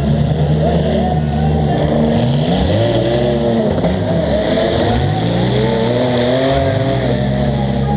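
Compact demolition derby car's engine heard from inside the car, revving up and falling back several times as it is driven around.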